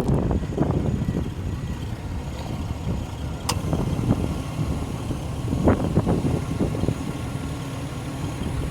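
Nissan Skyline R34 GT-T's RB25DET Neo turbocharged straight-six idling steadily through a NISMO cat-back exhaust, with gusts of wind hitting the microphone. A single sharp click about three and a half seconds in.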